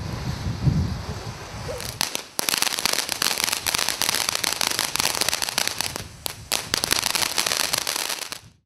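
Ground firework fountain spraying sparks: a steady hiss that turns into dense crackling about two seconds in, cut off suddenly near the end.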